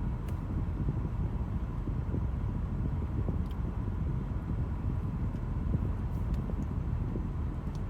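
Steady low rumble of a car heard from inside the cabin, with a faint steady whine and a few light clicks.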